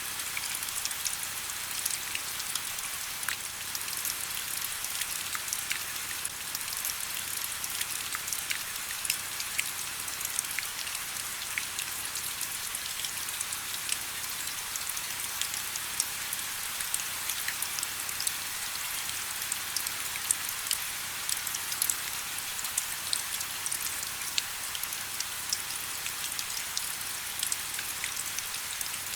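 Steady rain, a continuous hiss with many close, crisp drops pattering and ticking on a surface.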